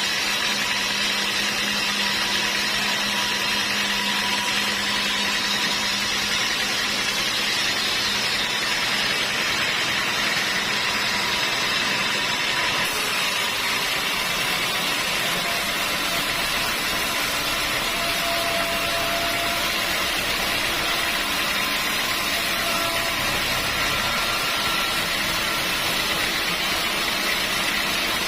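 Sawmill machinery running steadily: an even mechanical noise at a constant level, with a few faint steady tones.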